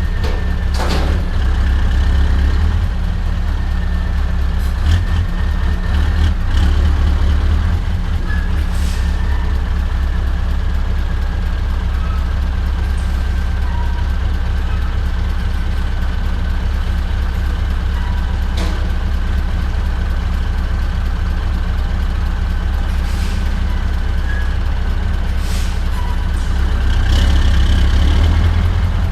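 Scania R580's straight-piped V8 diesel engine running steadily under way, a deep continuous drone with a faint high whine over it. A few brief clicks through it, and it grows a little louder near the end.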